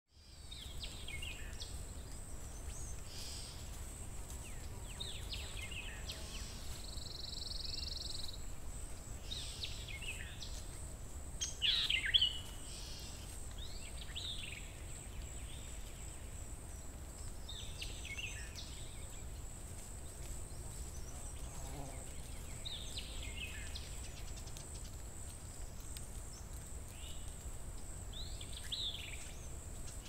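Woodland birds singing and calling in short, scattered phrases, the loudest burst about twelve seconds in. A steady high-pitched whine and a low rumble run underneath.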